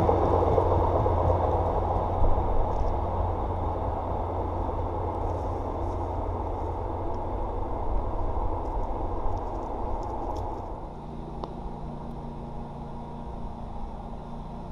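MBTA commuter train running away down the track, its rumble of wheels on rail and low diesel drone fading steadily. About eleven seconds in, the sound settles to a quieter, steady low hum, in keeping with the next diesel-hauled train still far off and approaching.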